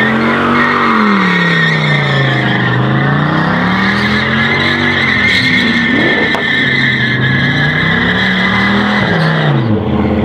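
A car doing donuts: its engine revs rise and fall in slow waves while the tyres squeal steadily. The squeal stops near the end, and the engine drops back.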